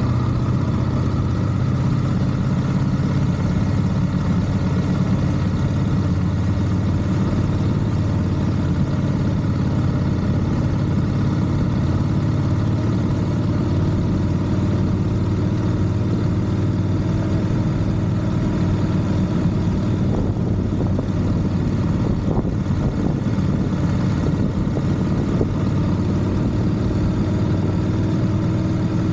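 A vehicle engine running steadily, with a slow, slight rise in its pitch.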